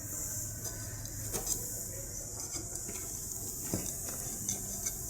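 Scattered light clicks and knocks of tools or engine parts being handled during an engine overhaul, over a steady low hum.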